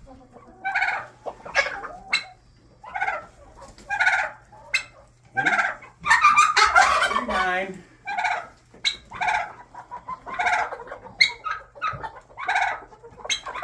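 Laying hens in a coop calling over and over: short calls about once a second, with a louder run of overlapping calls in the middle.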